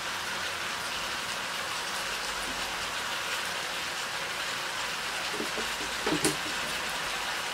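Native chicken sizzling in a wok: a steady hiss, with a few light knocks about five and a half to six seconds in.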